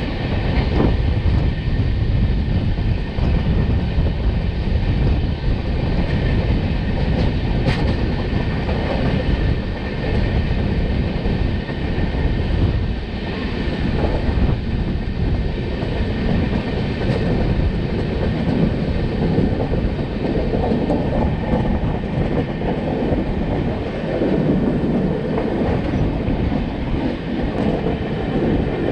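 Durg Humsafar Express passenger train running, heard from on board: steady noise of the wheels on the rails, with one sharp click about eight seconds in.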